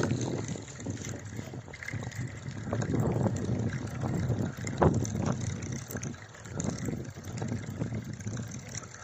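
Gusty wind buffeting the microphone: an uneven low rumble that swells and fades, with a few faint knocks, the clearest about five seconds in.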